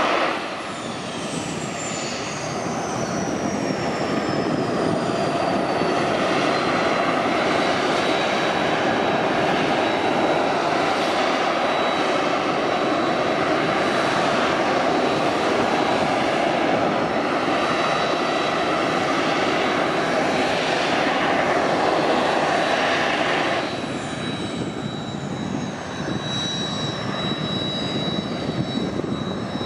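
Kawasaki T-4 jet trainer's twin turbofans running loud at take-off power, with a high whine that falls in pitch near the start. The level drops suddenly about 24 s in, and a second falling whine follows.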